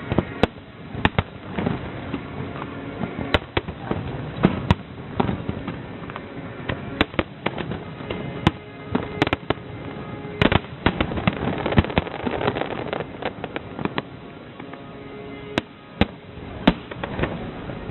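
Aerial fireworks bursting in quick, irregular succession: many sharp bangs and crackles, several close together, over a continuous rumble of the display.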